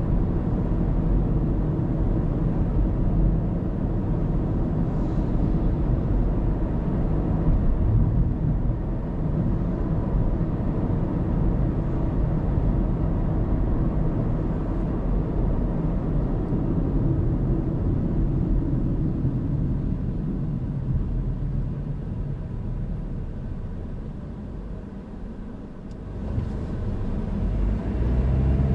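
Steady low rumble of a car driving, tyre and engine noise. It eases off about three quarters of the way through, then grows louder again near the end.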